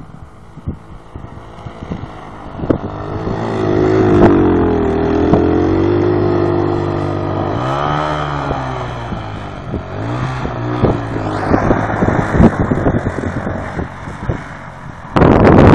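ATV engine running and revving: it grows louder a few seconds in, holds steady, rises and dips in pitch about halfway through, then fades away. Scattered clattering and rattling follow, and a loud rush of noise comes in just before the end.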